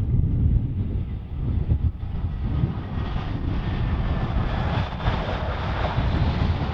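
Airbus A319's CFM56 jet engines, their noise growing louder in the second half. Strong wind buffets the microphone with a heavy, gusting rumble throughout.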